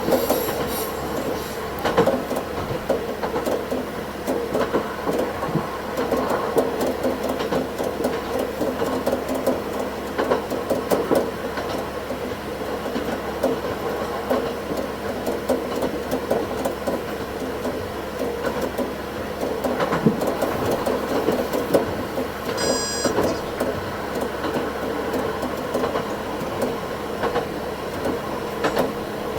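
Meisho Line diesel railcar running along the track, heard from the cab and sped up to double speed: a steady running rumble with wheels clattering over the rails. A brief high tone sounds about two-thirds of the way through.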